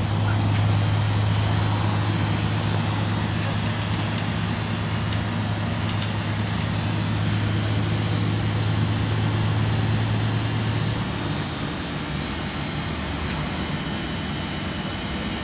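MAN A23 articulated city bus running along, its engine and drivetrain giving a steady low hum over road noise inside the passenger cabin. About eleven seconds in, the hum drops away and the sound goes quieter, as when the bus eases off or slows.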